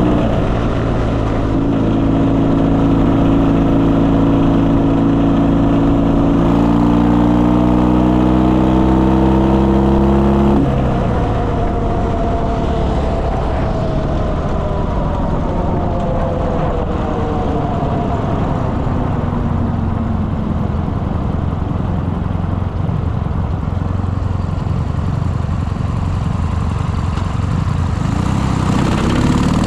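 Motorcycle engine running steadily under load, its note creeping up a little. About ten seconds in the note drops sharply and then falls slowly for about ten seconds as the bike slows, picking up again briefly near the end.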